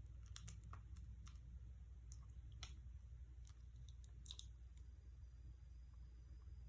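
Faint, irregular small clicks and ticks over a low steady hum, close to silence.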